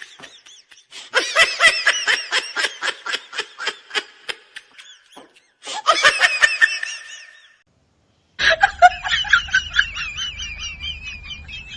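Bursts of rapid, pulsing laughter: a long laugh, a shorter one a little past halfway, and a higher, wavering laugh near the end, each cut off abruptly into silence.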